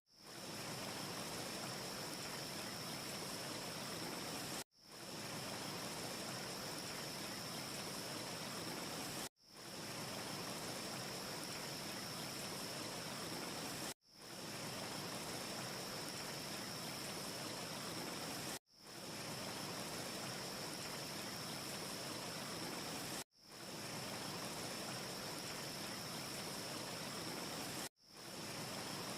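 Steady rushing ambience noise with a constant high hiss, of the wind-or-water kind, broken about every four and a half seconds by a brief dropout to silence that fades back in as a short loop restarts. No fire crackle stands out.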